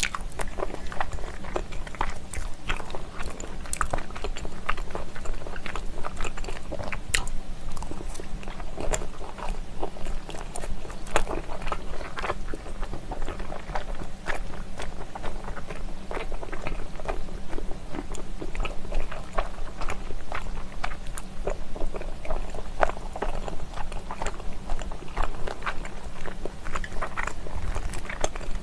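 Close-miked chewing and biting of spicy stir-fried pork skin: a steady run of small wet mouth clicks and smacks.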